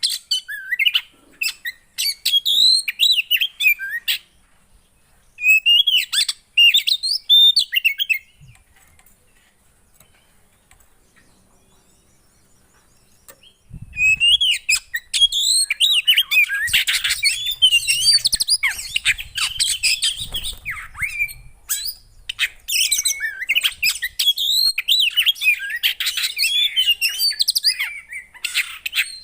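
A small songbird singing rapid, varied chirps and quick whistled glides. It comes in short bursts at first, falls almost silent for about five seconds, then sings almost without a break to the end.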